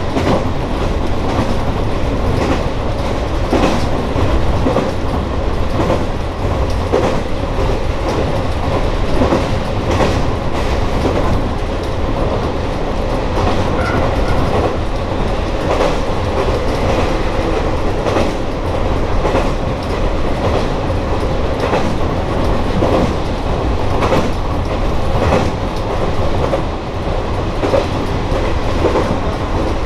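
Joso Line diesel railcar running, heard from inside the car: a steady engine and running noise, with the wheels clicking irregularly over rail joints.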